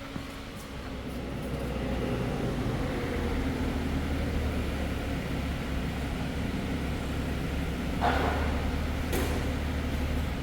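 A heavy machine's engine running steadily, getting louder about two seconds in, with a brief clatter about eight seconds in.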